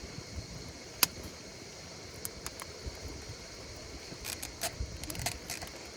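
Campfire crackling: irregular sharp pops and snaps of burning wood, a loud one about a second in and a quick run of them near the end, over a steady low rustle.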